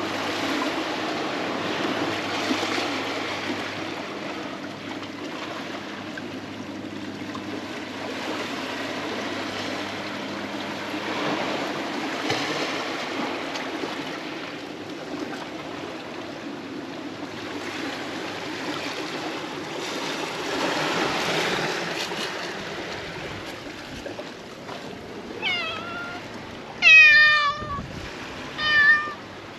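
Sea water washing around concrete breakwater tetrapods, then in the last few seconds a cat meowing several times, the loudest meow about two seconds before the end.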